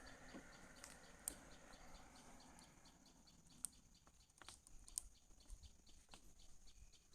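Near silence: faint background with a soft, regular high ticking about four times a second and a few scattered faint clicks.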